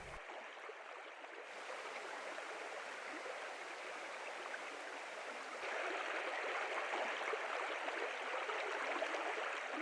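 The First South Branch Oconto River, a small trout stream, flowing with a steady rush of water. It grows somewhat louder about six seconds in.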